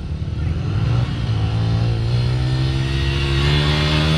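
Dirt bike engine accelerating, its pitch and loudness climbing slowly and steadily.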